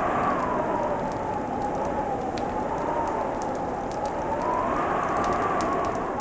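Wood fire crackling with scattered sharp pops, over a steady rushing noise that slowly swells and eases in pitch.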